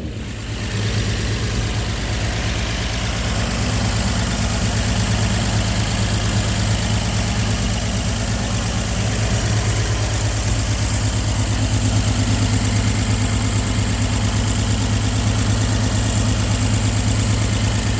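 1956 Chevrolet 3200 pickup's six-cylinder engine idling steadily and evenly.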